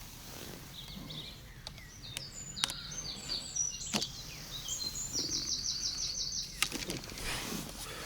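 A songbird singing: a run of high, quick chirping phrases that ends in a fast, evenly repeated trill, with a few sharp clicks over it.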